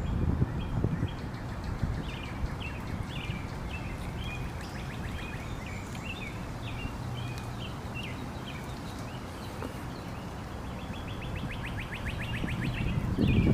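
Small birds chirping repeatedly, with a fast trill lasting about two seconds near the end, over a low steady outdoor rumble.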